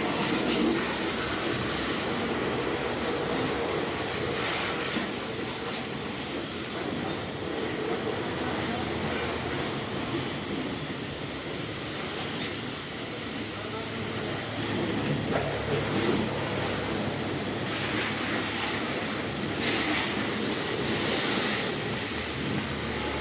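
Car wash equipment running, a steady hissing noise like spraying water or rushing air.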